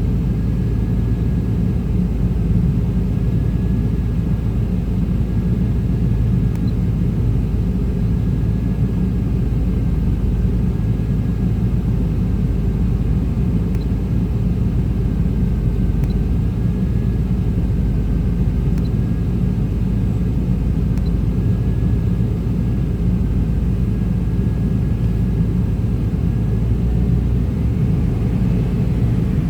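1995 Chevrolet Tahoe's 5.7-litre V8 idling with a steady low rumble. This is the rough idle the owner links to a throttle position sensor that is not reaching the computer, which he suspects is a wiring fault, and to EGR trouble.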